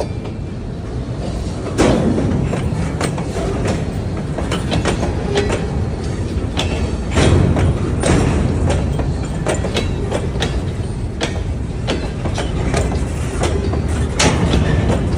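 Freight train rolling past close by: a steady rumble of the cars, with irregular sharp clicks and clacks from the wheels over the rail joints.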